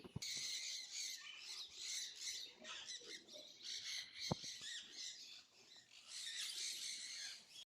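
Faint, dense chatter of many small aviary birds chirping and squawking at once, with a single sharp click about four seconds in.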